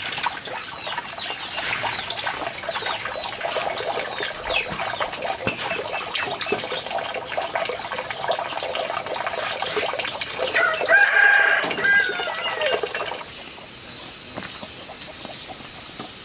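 A flock of chickens clucking, with a rooster crowing in one long call a little after ten seconds in. The sound drops to a quieter background near the end.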